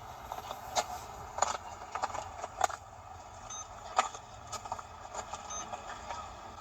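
Footsteps crunching on a dry forest floor while walking, a sharp crackle with each step, over a steady outdoor hiss.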